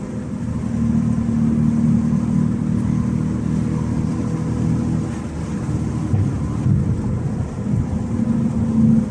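Exhaust of a Honda Accord's 3.5-litre J35 V6 with the muffler deleted, a deep, steady rumble that swells and eases a little in loudness.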